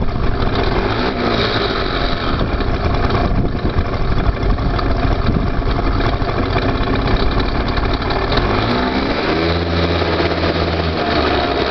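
Suzuki Let's 2 scooter's 50cc two-stroke engine and drivetrain running, with the engine speed rising and falling a few times. The drivetrain is making the abnormal noise that the recording is meant to show. A steady low hum sounds for a second or so near the end.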